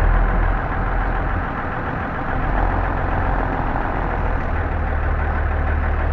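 M923A1 military 5-ton truck's diesel engine running with a steady low drone, easing off slightly for a second or so and then picking up again as the truck is slowly turned around.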